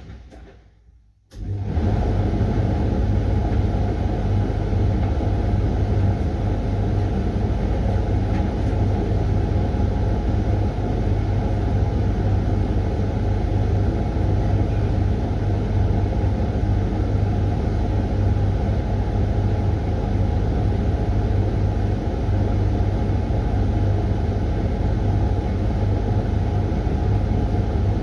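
Hoover front-loading washing machine running steadily mid-cycle, an even motor hum and rumble. It drops out briefly at the start and comes back in full about a second and a half in.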